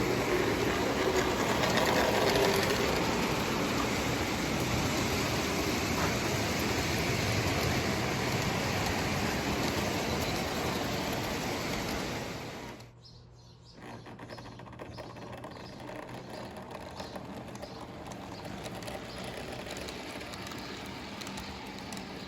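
O gauge Lionel toy train running on the layout track: a steady whir and rattle of motor and wheels. About thirteen seconds in it drops abruptly to a quieter, steady run.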